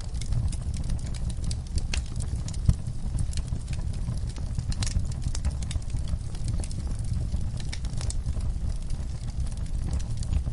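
Wood fire burning with a steady low roar of flames and irregular sharp crackles and pops, one louder pop about two and a half seconds in.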